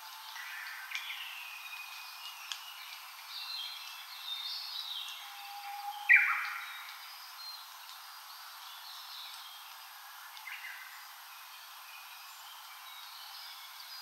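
Several wild forest birds singing and calling over one another, with a louder call about six seconds in that slides down in pitch.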